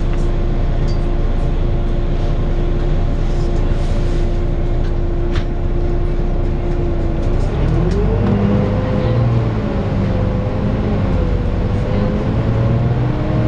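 Volvo B9TL double-decker bus heard from on board: the diesel engine rumbles under a steady whine. A little past halfway the rumble changes and a whine rises in pitch and then wavers as the bus pulls away and gathers speed.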